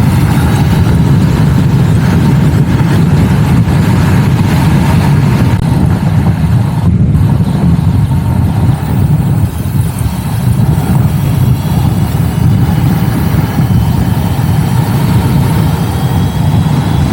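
Wind rushing over the microphone of a rider on a moving electric scooter, a steady low rumble, with a faint high whine drifting up and down.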